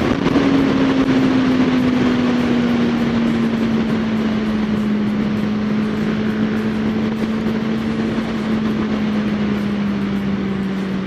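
Suzuki GSR600's inline-four engine running at high revs while riding, its note falling slowly and evenly as the revs drop, with wind rushing past.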